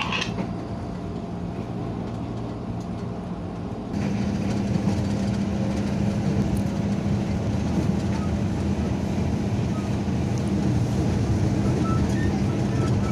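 Electric commuter train heard from inside a passenger car: a steady low hum over rumbling running noise. It gets louder about four seconds in.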